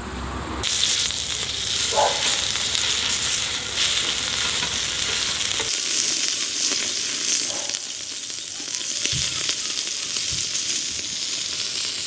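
Food sizzling loudly on a hot grill set over a fierce wood fire in a small camp stove, starting abruptly about a second in and running on as a dense steady hiss.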